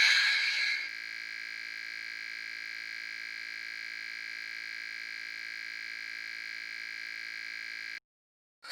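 A cockatiel's wheezy, hissing call, the pig-like sound it is known for, for about the first second. It then gives way to a steady, unchanging electronic buzz of many fixed tones that cuts off suddenly near the end.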